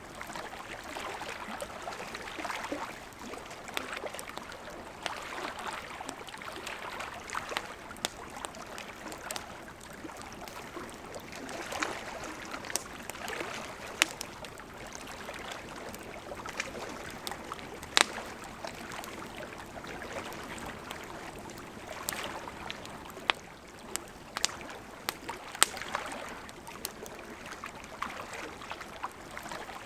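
Campfire crackling with irregular sharp pops, a few much louder than the rest, over the steady rush of a gently flowing river.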